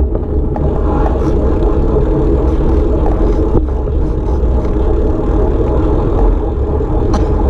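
A motor vehicle's engine running steadily with a heavy low rumble.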